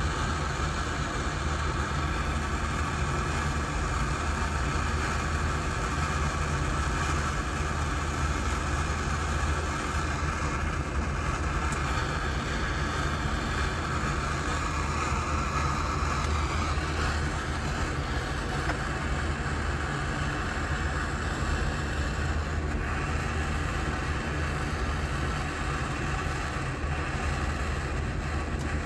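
Metal-melting furnace running steadily while copper heats in it: a continuous rushing noise with a low hum underneath.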